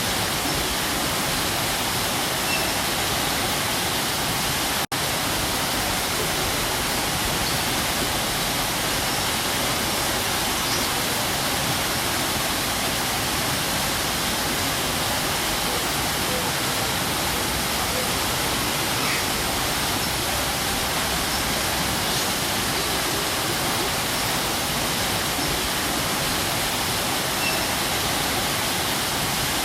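Waterfall pouring steadily, a dense, even rush of falling water. The sound cuts out for an instant about five seconds in.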